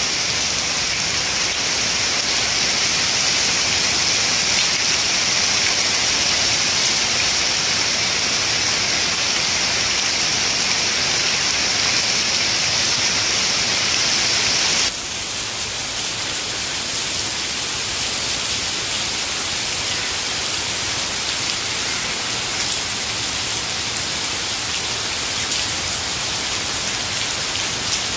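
Steady rain falling on palm fronds and leafy foliage, an even patter with no other sounds. About halfway through it abruptly turns a little quieter and less bright, as one stretch of rain gives way to another.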